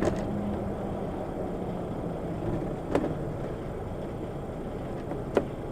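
A car driving, with steady engine and road noise. Three short sharp knocks come through it: one at the start, one about three seconds in, and one near the end.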